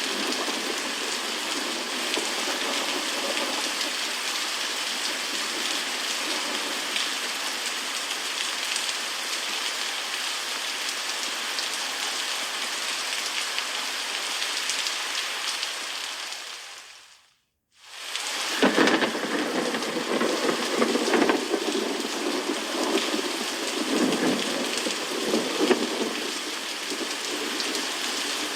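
Steady heavy rain with rumbles of thunder. The sound fades out completely about two-thirds of the way through and comes straight back, with more low rumbling and swelling after the break.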